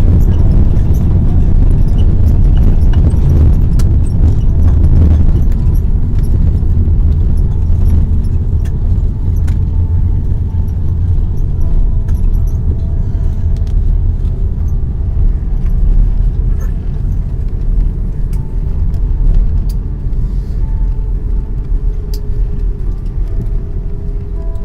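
Airbus A330-300 cabin noise during the landing rollout: a loud, dense low rumble of the engines and the wheels on the runway, easing gradually as the aircraft slows.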